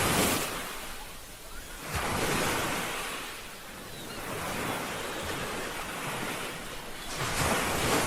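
Ocean waves washing onto a shore in repeated surges: one breaking at the start and fading, another swelling about two seconds in, and a third near the end.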